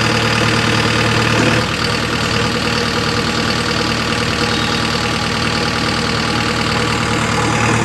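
An engine running steadily at idle, its low hum changing slightly about a second and a half in.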